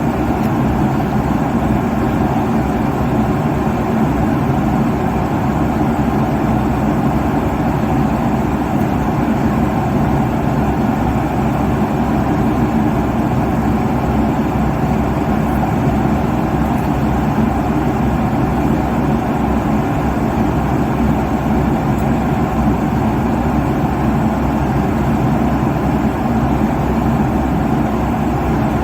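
Steady jet airliner cabin noise at cruise: an even, unchanging rush of engine and airflow noise, heavy in the low end.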